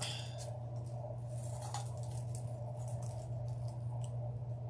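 Soft rustling and light clicks of deco mesh and ribbon being handled and tied onto a grapevine wreath, over a steady low hum.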